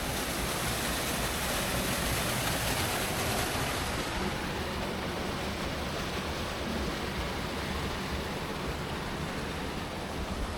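Steady rush of flowing creek water. The hiss is brighter for the first few seconds, then a little duller.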